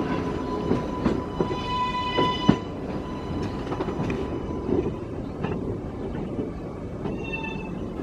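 Subway train running past at the station: a steady rumble of the cars with sharp clicks of the wheels over rail joints in the first few seconds, and a high wheel squeal about two seconds in and again, fainter, near the end.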